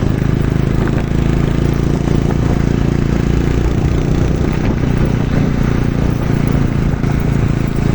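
Motorcycle engine running at a steady pitch, with no change in revs.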